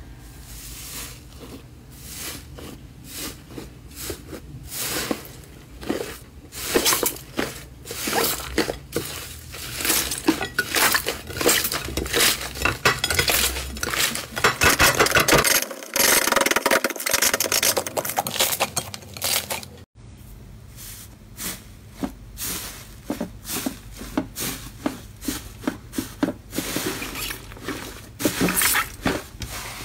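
Slime being squeezed and kneaded by hands: a dense run of irregular sticky clicks, pops and crackles, thickest and loudest near the middle, with an abrupt cut about two-thirds of the way through to another stretch of the same kind of slime play.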